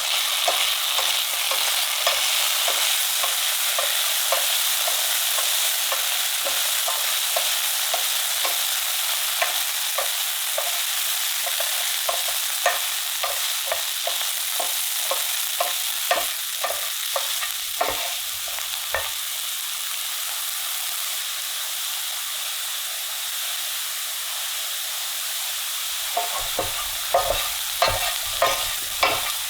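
Potato pieces frying in a pan with oil and butter, sizzling steadily, while a spatula taps and scrapes against the pan as they are stirred. The stirring clicks stop for several seconds past the middle, then start again strongly near the end.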